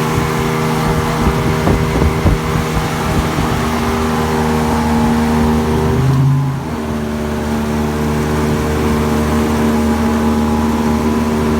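Pontoon boat's outboard motor running steadily while towing a jon boat, with a constant rush of water and wind. The sound shifts briefly about six seconds in, then settles back.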